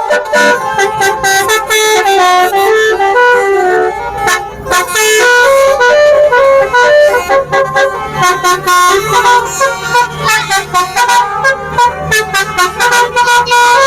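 Telolet basuri horn tune: a multi-tone musical horn playing a quick melody of stepped notes over a percussive beat. A low steady hum joins about halfway through.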